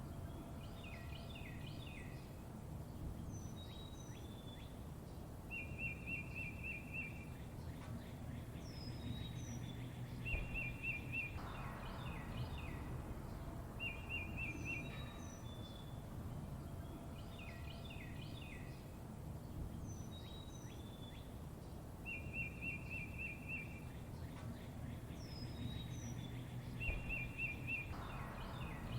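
Songbirds chirping, with a short rapid trill and high falling whistles that come back every few seconds, over a steady low background noise. The same run of calls repeats about every eight seconds, as in a looped recording.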